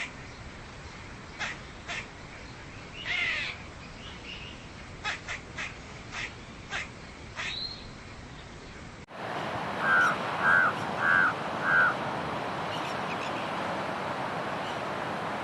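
Bird calls from two spliced recordings: first a run of short, sharp calls, then after an abrupt cut about nine seconds in, a raven giving four loud harsh caws about half a second apart over steady background hiss.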